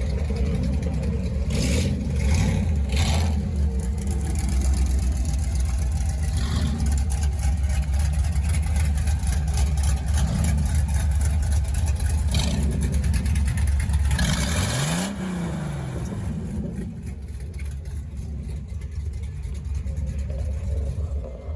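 Vehicle engine running with a steady low rumble, rising and falling in pitch once about fifteen seconds in, after which it is quieter.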